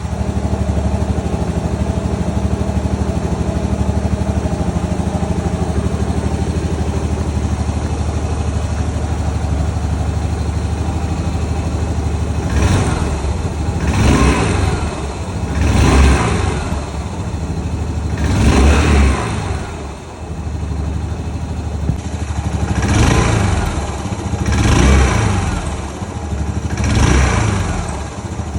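Yamaha SR400 RH03J's fuel-injected, air-cooled 399 cc single-cylinder engine idling steadily, then revved in short throttle blips about seven times over the second half, each rising and falling back to idle.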